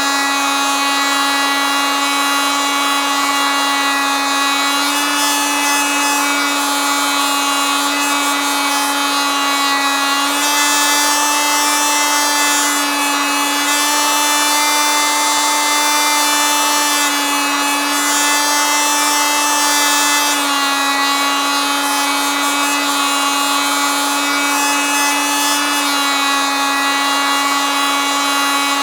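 Oscillating multitool running continuously: a steady, loud buzz whose pitch steps slightly up and back down a few times.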